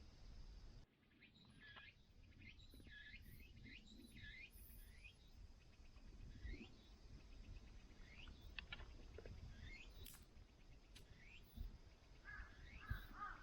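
Faint birdsong of small birds: scattered short chirps and quick rising and falling notes, with a run of repeated arching calls starting near the end. A low rumble stops abruptly about a second in.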